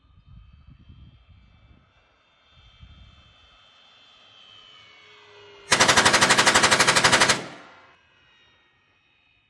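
A rapid burst of simulated machine-gun fire, about twelve shots a second for under two seconds a little past halfway, is the loudest thing here. Before it, the electric motor and propeller of a model P-51 warplane whine steadily, sinking slightly in pitch, over a low rumble in the first few seconds.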